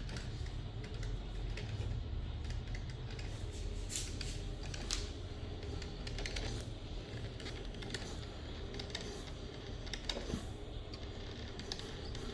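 Morphy Richards Europa drip coffee maker brewing just after being switched on: a low steady hum with irregular small clicks and pops as the heater pushes water through.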